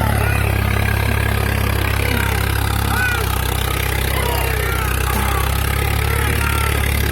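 Swaraj 742 tractor's diesel engine running steadily at an even idle, with short high chirps scattered over it.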